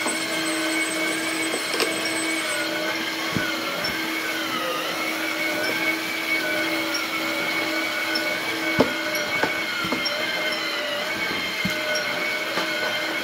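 1/14 Tamiya Mack Granite RC dump truck's electric drive and gearbox whining, the pitch dipping and rising as it works, with a few sharp knocks along the way.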